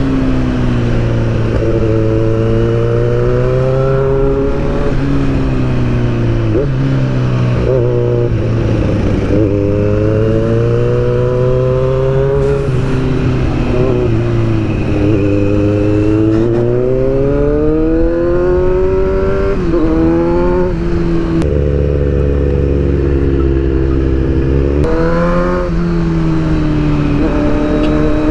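Sportbike engine under hard riding: it accelerates and eases off again and again, its pitch climbing through each gear and dropping at each shift, with wind rush.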